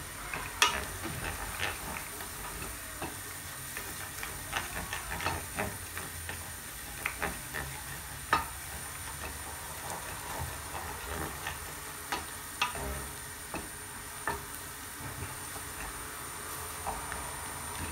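Onion, garlic paste and cashews sizzling in butter and oil in a stainless steel pot, stirred with a wooden spatula that scrapes and knocks against the pan.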